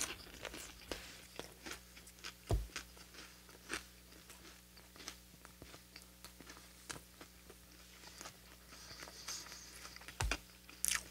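Close-miked chewing of a fried chicken sandwich with a hot Cheetos crust: small crunches and wet mouth clicks at irregular intervals, over a faint steady low hum.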